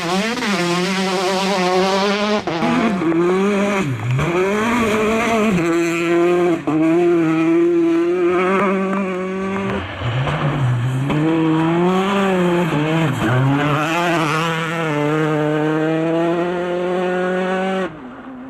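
Citroen DS3 R5 rally car's turbocharged four-cylinder engine run hard. Its revs hold high, then fall sharply and climb back several times as it lifts, shifts and accelerates between corners, with tyre noise under it. The engine sound drops away near the end.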